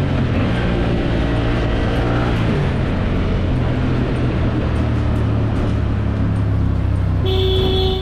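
A motor vehicle's engine running steadily under road and wind noise, with a short steady tone sounding near the end before everything cuts off suddenly.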